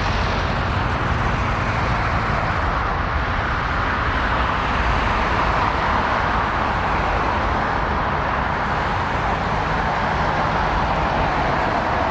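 Jet airliner engines running, a steady, even rush with a low rumble underneath.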